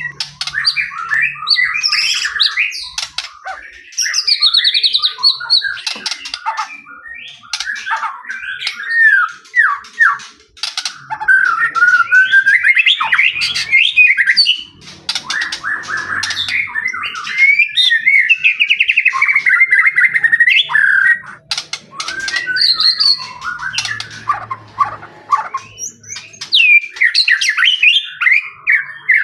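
White-rumped shama singing a loud, continuous, varied song of whistled phrases, fast trills and sharp harsh notes.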